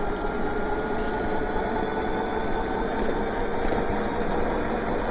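Electric bike riding on a wet road: a steady rush of tyre and wind noise with the faint, steady whine of the hub motors.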